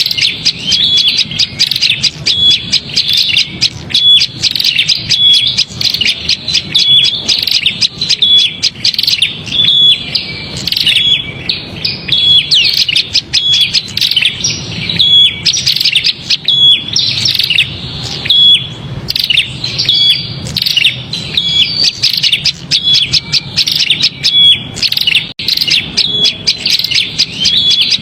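Prinias (prenjak) calling in an agitated, noisy chorus: a dense run of high chirps with a short clear note repeating about once a second. It is alarm-type calling of the kind played as a lure to bring small birds down.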